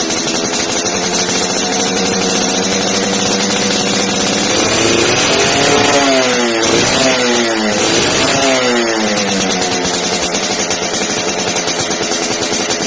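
Suzuki Satria 120 two-stroke single-cylinder engine running through an aftermarket expansion-chamber exhaust. It idles, is revved up and down a few times in quick succession midway through, then drops back to idle.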